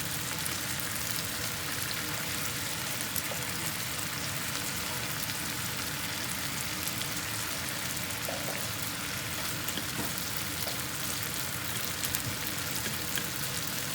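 Thin-sliced chicken frying in a pan, a steady sizzle with a few faint pops.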